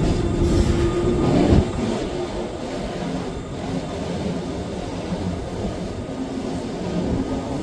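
Wengernalpbahn electric rack-railway train, a steady rumble with a faint low hum, and a single knock about one and a half seconds in.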